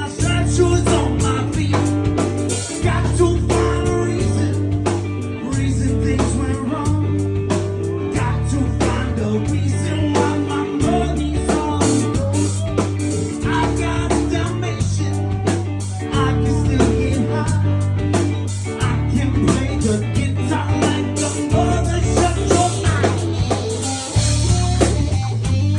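Live rock band playing: electric guitar, bass and drum kit in a steady groove.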